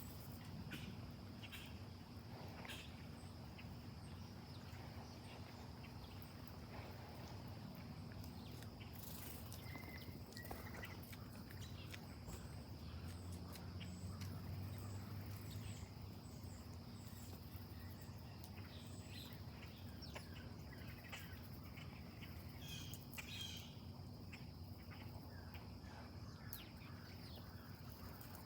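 Faint late-summer backyard ambience: a steady high insect drone, with scattered short bird chirps over a low steady hum.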